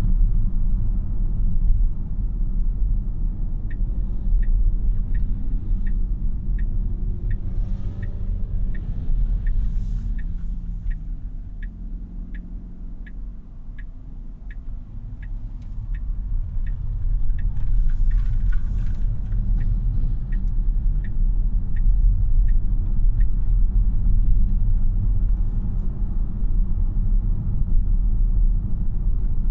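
Tyre and road rumble inside the cabin of a 2026 Tesla Model Y AWD, a dual-motor electric car with no engine note. The rumble eases around the middle as the car slows and builds again as it speeds up. A turn-signal indicator ticks evenly, just under twice a second, from a few seconds in.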